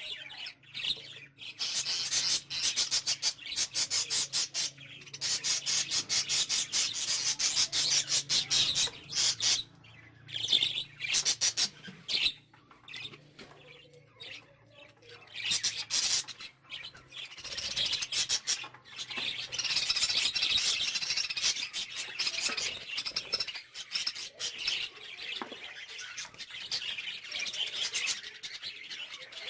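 A flock of caged budgies and cockatiels chirping and chattering, rapid and high-pitched, in bouts broken by short lulls.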